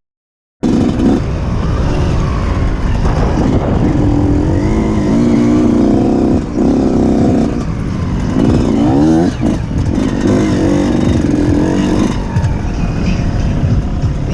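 Off-road motorcycle engine running and revving, its pitch rising and falling repeatedly. The sound cuts in after a brief silence at the very start.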